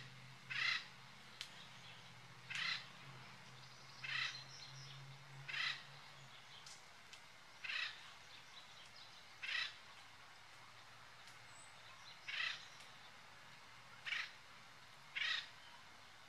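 A bird giving a series of short, harsh calls, about one every one and a half to two seconds, nine in all.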